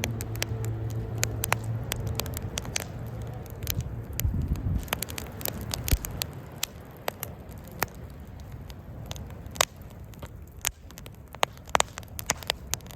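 Wood campfire crackling, with frequent sharp pops and snaps of burning wood at irregular intervals. A low steady hum fades out after about two seconds.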